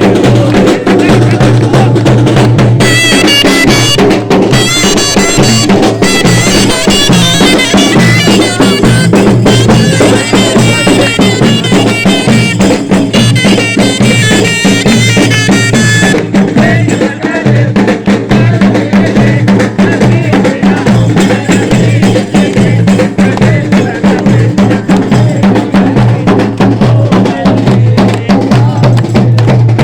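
Live Arab zaffa music: drums beating a fast, dense rhythm under a bagpipe melody over a steady drone. The high, ornamented piping drops out about halfway through while the drums and drone carry on.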